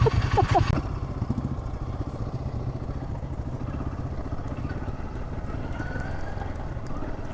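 Motorcycle engine running steadily, a low even rumble, louder for about the first second.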